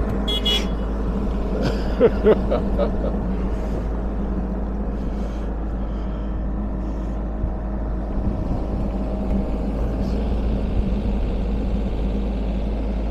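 Diesel engine of a Sany 35 mini excavator running steadily at idle, with two sharp knocks about two seconds in.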